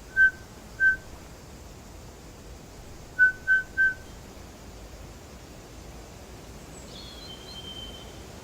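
Short, clear whistled notes at one steady pitch: two spaced apart, then three in quick succession, followed near the end by a fainter, longer, higher whistle.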